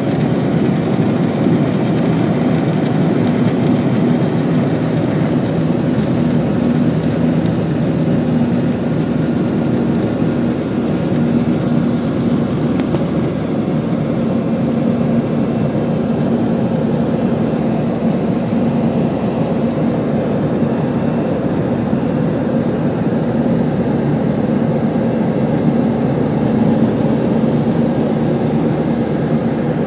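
Airbus A320 jet airliner cabin noise in the climb after takeoff: steady engine and airflow roar heard from inside the cabin, with a constant low drone.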